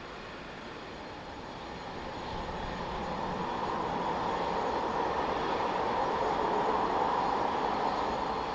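Jet airliner engines growing louder as the plane passes, swelling from about two seconds in to a peak near the end, then easing slightly.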